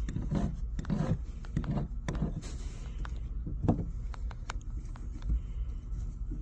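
A plastic-welding iron's tip scraping and ticking irregularly as it is worked back and forth over the polyethylene ballast tank, smoothing the melted weld. A low steady hum runs underneath.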